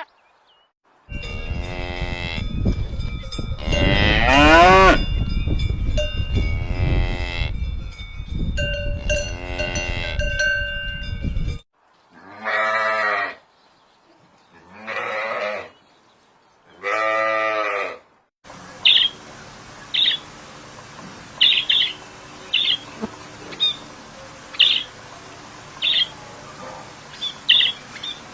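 Cattle mooing, long drawn-out calls with cowbells ringing over a low rumble, then three separate moos a couple of seconds apart. Near the end, a run of short high chirps.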